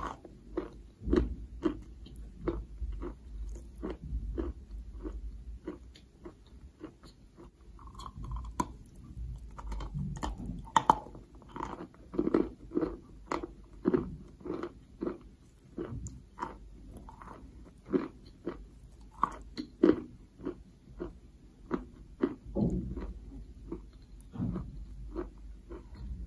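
Close-up chewing of a mouthful of white chalk: a run of short, dry, irregular crunches, about one or two a second, as the chalk is ground between the teeth.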